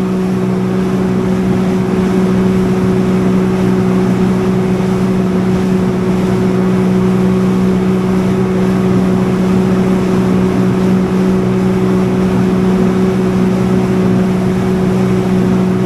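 Jet ski engine running at a steady cruising speed, a constant hum that holds one pitch throughout over a rushing hiss.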